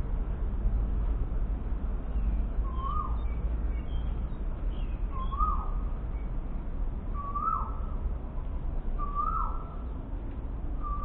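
A bird calling five times, about every two seconds, each call a short note that rises and then drops, with a few faint higher chirps of other birds. A steady low rumble runs underneath.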